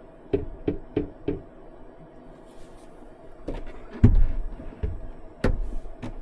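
Light knocks and dull thumps of things being handled and set down inside a truck-bed camper shell: four quick taps in the first second and a half, then a heavier thump about four seconds in and another near the end.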